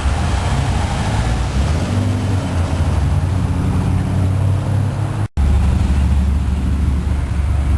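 Engines of old American cars running as they cruise past in street traffic. The sound cuts off abruptly about five seconds in and jumps to a stronger, deeper engine note.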